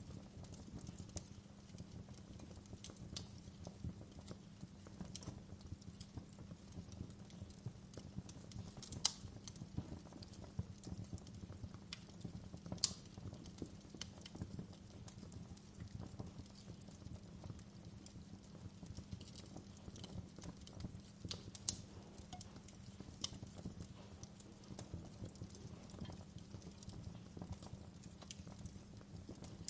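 Wood fire crackling: irregular small crackles and pops over a low steady rumble, with a few louder, sharper pops spread through.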